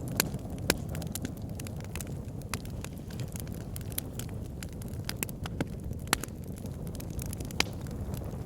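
Wood fire burning in a log burner: a steady low rumble of flames with irregular crackles and a few sharper pops of burning logs.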